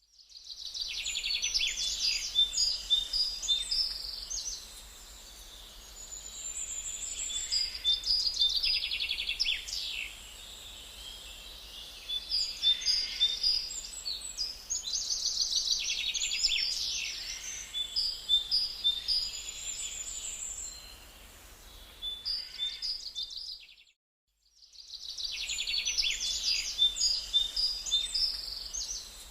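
Gouldian finch singing and calling: bouts of high chirps and fast rattling trills every few seconds, over a steady low hum. The sound cuts out completely for about a second near the end.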